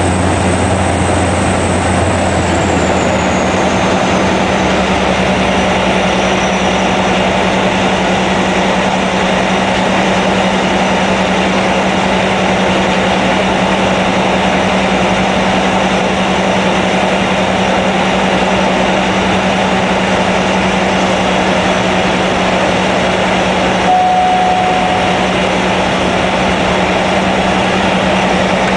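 Cessna 208B Grand Caravan's Pratt & Whitney Canada PT6A turboprop and propeller running steadily, heard from inside the cabin. Its high turbine whine drops in pitch a few seconds in, and a short beep sounds near the end.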